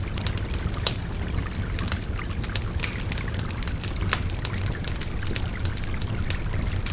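Wood fire crackling and popping in irregular sharp snaps, the loudest about a second in, over a steady babbling stream.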